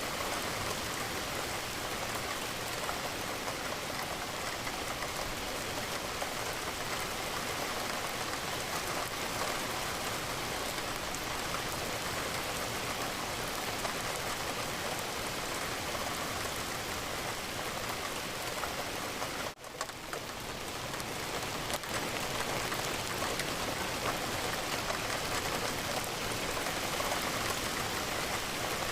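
Steady rain falling on a window, with a brief dropout about two-thirds of the way through, after which the rain fades back up.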